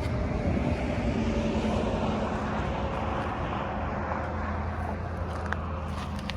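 A steady, distant engine drone with a rushing sound that swells over the first couple of seconds and then slowly fades, like a vehicle or plane going by.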